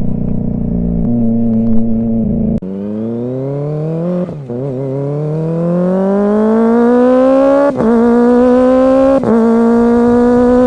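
Kawasaki ZX-25R 250 cc inline-four engine revving hard through a free-flowing aftermarket exhaust while the bike accelerates: the pitch drops sharply a couple of seconds in, then climbs in long rising pulls with a short break, and holds a high note with brief dips near the end. The rider finds that the big-bike silencer lets the exhaust flow too freely and costs power.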